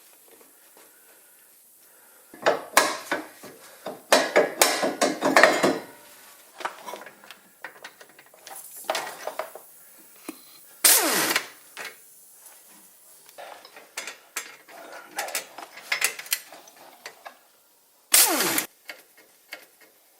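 Hand ratchet wrench clicking in quick bursts while undoing fasteners on a Porsche 911's rear suspension, with metal parts knocking and clinking between bursts. A sharp ringing metal hit comes about eleven seconds in.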